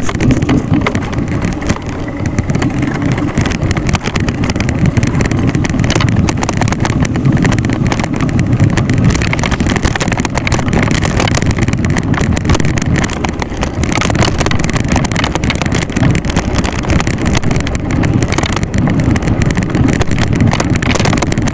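Wind rumbling on the microphone of a camera riding on a moving bicycle: a loud, steady low roar throughout.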